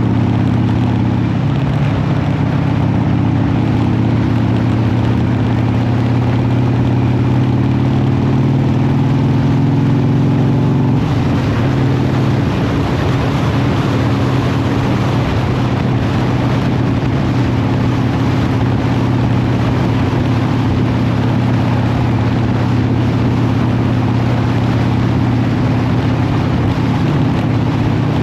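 Harley-Davidson V-twin motorcycle engine running under way, its note climbing gradually and then shifting about eleven seconds in, when a rushing noise also grows louder.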